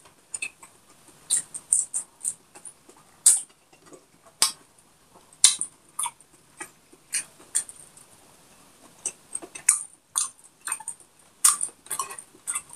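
Close-miked mukbang eating sounds: a person chewing fried pork with the mouth open-miked, giving a string of irregular wet mouth clicks and lip smacks, several a second at times.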